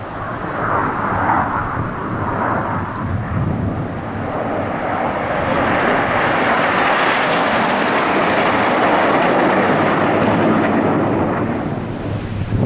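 An aircraft flying past, its noise swelling from about four seconds in, staying loud through the middle and easing off near the end.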